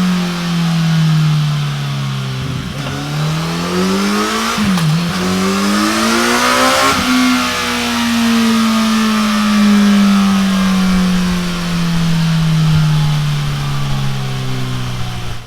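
Kawasaki Z900RS inline-four engine through a Delkevic carbon fibre oval muffler, revving. The pitch drops, climbs again to a peak about seven seconds in, then winds slowly down.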